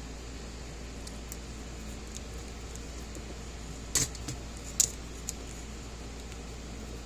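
Sharp clicks and clatters of small hand tools and cable being handled. The loudest come about four seconds in and again just before five seconds, with a few fainter ticks, over a steady low hum.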